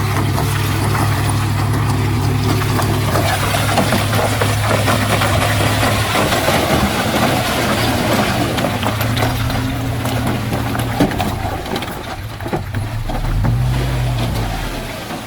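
Heavy diesel earthmoving machinery running, a steady low engine note at first, turning rougher and more varied after about six seconds, with a low swell in the engine sound near the end before it fades out.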